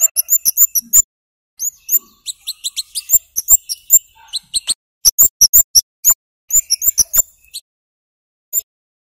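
Scarlet-headed flowerpecker (kemade) giving loud, sharp, high 'cit' chirps in quick runs of several notes, broken by short pauses, with a single chirp near the end.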